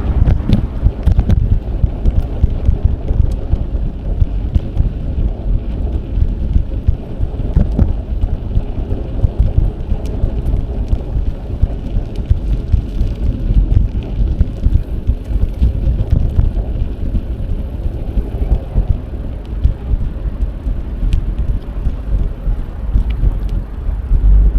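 Wind buffeting an action camera's microphone while riding a bicycle: a steady low rumble of wind and tyre noise, with small scattered clicks and rattles from the bike.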